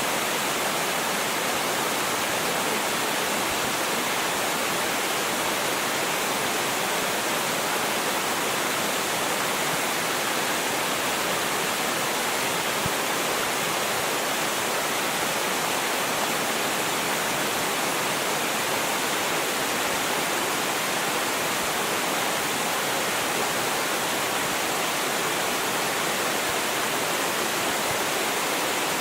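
Small mountain waterfall spilling down a rocky stream, a steady, unbroken rush of water.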